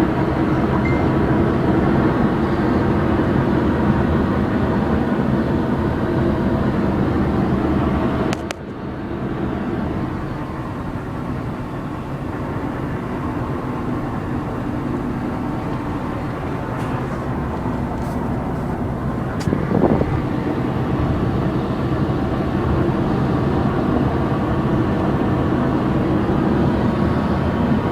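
Steady vehicle engine and road noise with a low, even hum, cut off sharply about eight seconds in and then resuming slightly quieter.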